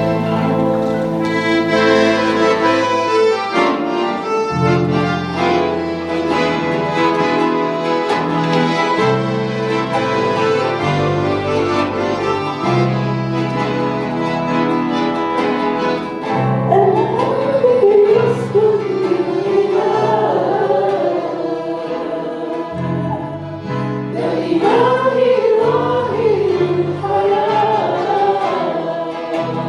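Worship music: an instrumental accompaniment of held chords over a moving bass line, with singing voices joining about halfway through, breaking off, and coming back near the end.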